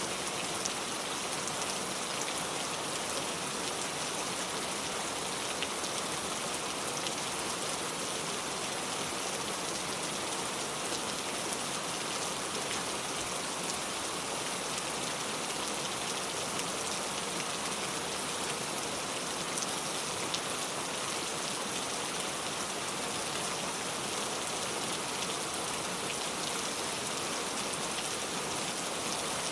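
Steady rain falling, an even hiss with a dense patter of drops and no thunder.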